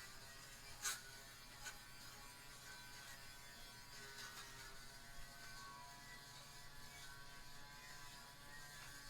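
Faint steady electric buzzing hum, with a light click about a second in and another soon after.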